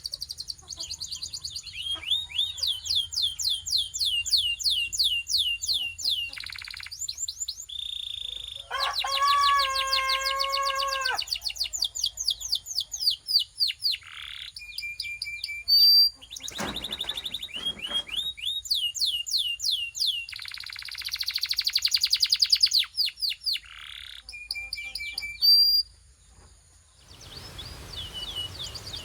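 Belgian canary singing a long song of rapid trills made of repeated falling notes. A lower, held rolling note comes about a third of the way in, and there is a buzzy run of notes later on. The song breaks off briefly near the end.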